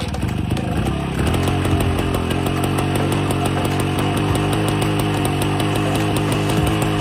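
A 1951 DKW 125 motorcycle's single-cylinder two-stroke engine, just kick-started, idling with a steady two-stroke beat. It picks up slightly about a second in, then holds steady.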